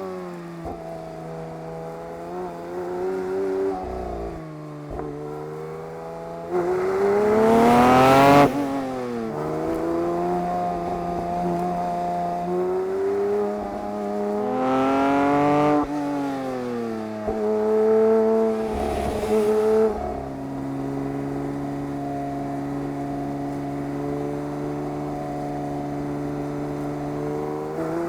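Porsche 911 S/T's 4.0-litre flat-six engine being driven hard: the revs climb steeply to a loud peak about eight seconds in and fall away sharply. They rise and drop again in the middle, then hold a steady note for the last several seconds.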